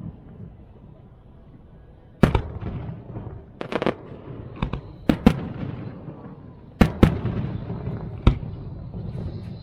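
Fireworks going off: about ten sharp bangs starting about two seconds in, several in quick pairs and clusters, over a low rumble.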